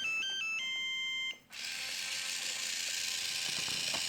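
A short electronic beeping tune of plain steady tones stepping up and down, which stops about a second and a half in and gives way to a steady hiss.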